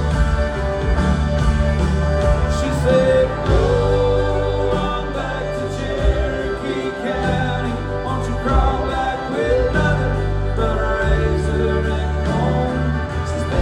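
Live country band performing, with singing over bass guitar and a steady drum beat.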